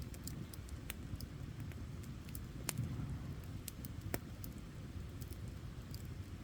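Wood campfire burning: a steady low rumble with scattered sharp crackles and pops, two louder pops a little before and after the middle.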